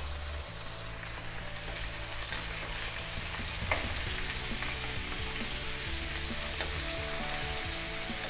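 Chunks of potato, carrot and pepper sizzling as they fry in oil in a nonstick pan, stirred with a wooden spatula; a steady hiss with a couple of sharper clicks.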